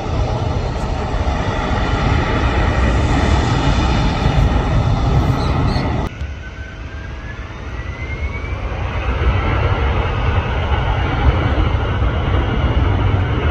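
Jet airliner engine noise, loud and steady, with a sudden drop about six seconds in. After the drop a rising whine climbs over a few seconds as the engine noise builds again.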